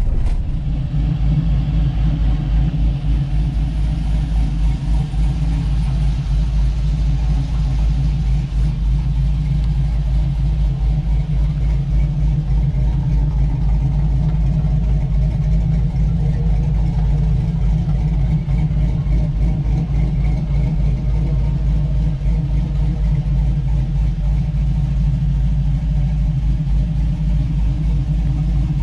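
Fuel-injected, cammed LS V8 in a lifted 1985 Chevrolet K10 4x4, breathing through headers and Flowmaster dual exhaust, running steadily while the truck drives, heard from inside the cab.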